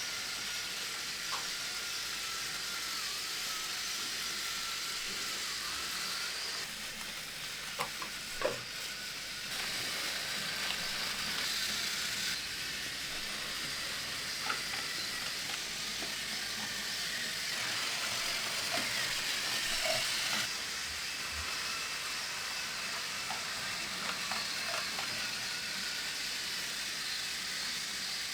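Battery-powered Plarail toy train running, its small motor and gears whirring steadily under a hiss, with a few light clicks about eight seconds in.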